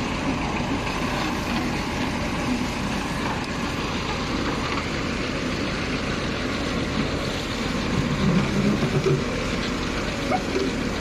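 A heavy machine's engine running steadily at a constant speed, with voices talking over it near the end.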